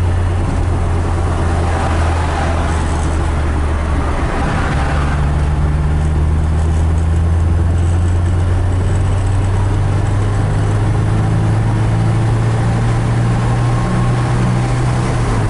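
A 1975 BMW 2002's four-cylinder engine running steadily under way, with tyre and road noise, heard from inside the cabin. There is a brief change in the engine note about four seconds in, and it otherwise runs smoothly.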